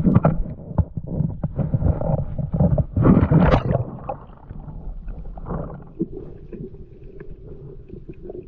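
Water splashing and sloshing close to the microphone, in choppy bursts with sharp knocks that peak about three seconds in, then quieter with a faint steady hum.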